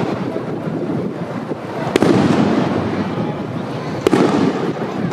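Aerial fireworks shells bursting: two sharp bangs about two seconds apart, each trailing off in a long echo, over a continuous din of further bursts.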